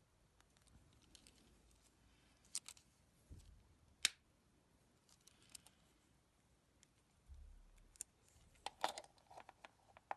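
A handful of light, sharp clicks and small handling noises from an Opel Corsa C remote key being worked on by hand: single clicks spaced a second or two apart, then a quick cluster near the end.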